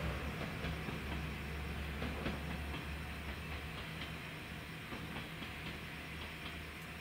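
Diesel train receding down the line, its low rumble fading away over the first few seconds, with a steady chorus of night insects chirping over it.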